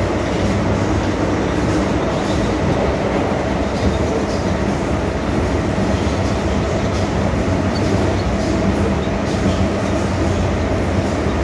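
MTR M-Train electric multiple unit running steadily at speed: continuous rolling roar of wheels on rail with a steady motor hum and faint rail-joint clicks.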